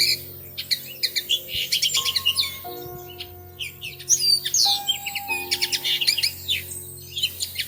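Dense, rapid chirping and twittering of small songbirds, with many short high calls overlapping. Background music runs under it, with sustained chords that change every second or two.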